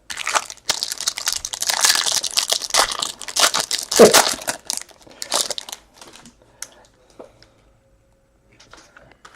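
Crinkling and crackling of card packaging handled during a trading-card box break, dense for about five seconds, then thinning out to a few light clicks and taps.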